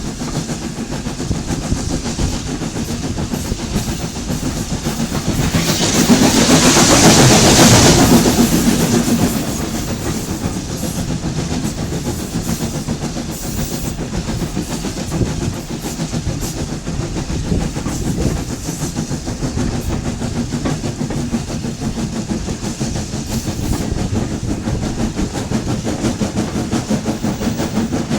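Train running along the track, with steady rumble and the clickety-clack of wheels over rail joints. A louder rushing swell builds about six seconds in and fades out over about three seconds.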